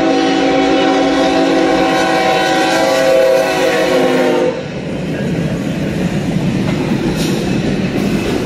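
BNSF freight locomotive's air horn blowing one long warning blast, a chord of several notes held steady, cutting off about four and a half seconds in. After that comes the rumble and wheel clatter of the double-stack freight train rolling through the crossing.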